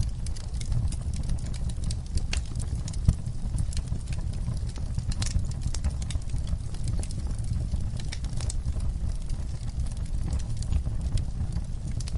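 Wood fire burning, with a steady low rumble of flames and irregular sharp crackles and pops of burning wood, one louder pop about three seconds in.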